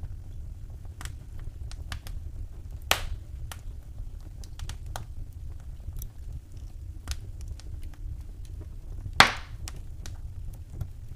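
Wood fire in a fireplace crackling: scattered sharp pops and snaps over a low steady rumble, with two louder pops, one about three seconds in and the loudest about nine seconds in.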